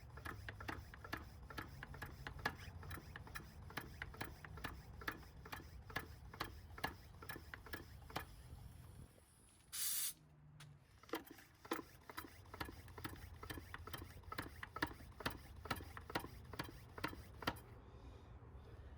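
Hand pump of a garden pump-sprayer jug worked in quick strokes, clicking about three times a second, pressurising the jug to push gear oil through a hose into a truck differential. The strokes pause briefly about halfway, where a short hiss is heard, then resume and stop near the end.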